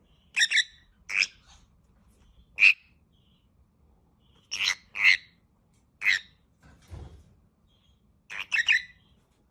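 Pet parrot giving short, high chirps, about ten of them at irregular gaps, with a quick run of three near the end.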